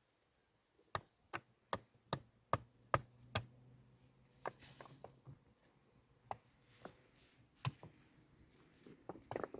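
A series of sharp, short knocks, like chopping or tapping blows, coming about two or three a second for a couple of seconds and then more scattered.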